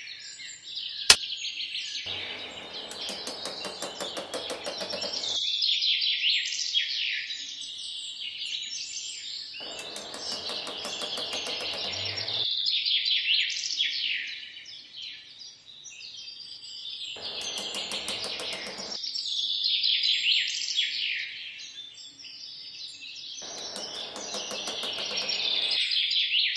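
Many small birds chirping and twittering in quick falling notes. Four times a rattling trill joins in for a few seconds. There is one sharp click about a second in.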